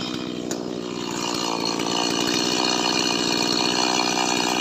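Small Stihl MS chainsaw running at high throttle while cutting lamtoro (leucaena) wood. The engine swells louder over the first couple of seconds, then holds steady.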